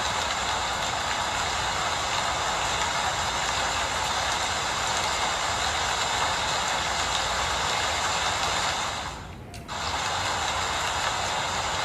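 Steady rain falling, an even hiss that briefly drops away for about half a second a little past nine seconds in.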